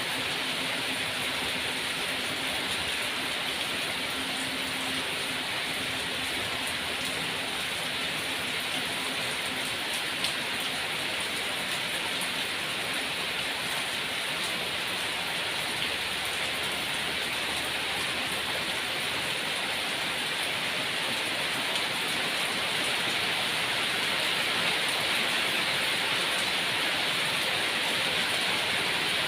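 Steady rain falling, an even dense hiss that swells slightly louder near the end.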